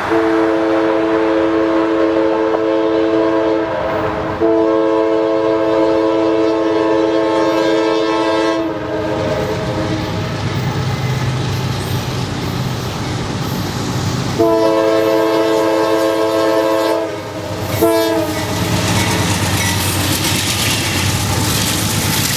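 Diesel freight locomotive's multi-note air horn sounding three long blasts and a short one, over the rumble and clickety-clack of a heavy Norfolk Southern freight train rolling past.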